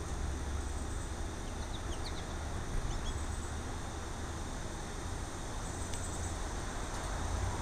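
Steady low rumble and hiss of outdoor background, with a few faint, short bird chirps about two seconds in.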